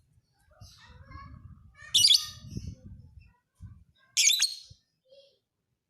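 Lovebird singing: two loud, shrill, rapidly warbling bursts about two seconds apart, the first about two seconds in and the second just past four seconds, with softer chirps between them.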